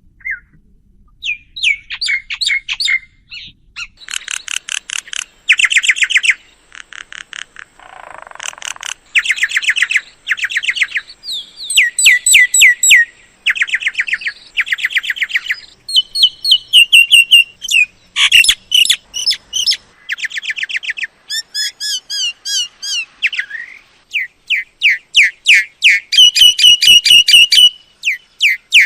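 Myna calling: rapid runs of repeated high notes in bursts about a second long with short gaps, mixed with some sliding whistled notes.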